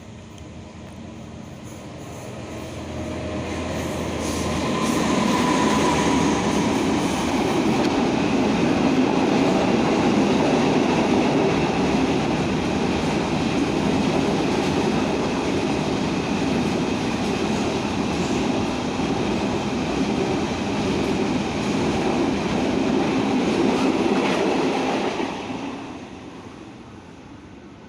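A Thai railway train passing close by: the rumble and rattle of the rolling stock rise over a few seconds, hold loud for about twenty seconds, then fade away.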